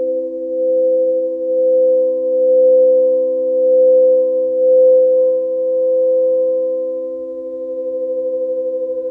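Several pure, steady tones sounding together as a held sound-healing chord, rising and falling gently in loudness about once a second, easing off slightly near the end.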